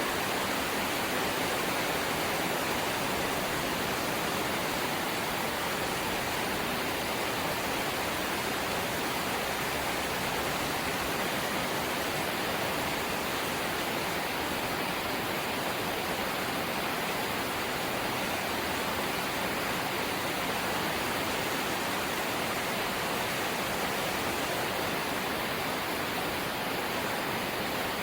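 Rain falling on a corrugated zinc (galvanised iron) roof: a dense, steady hiss with no separate drops standing out.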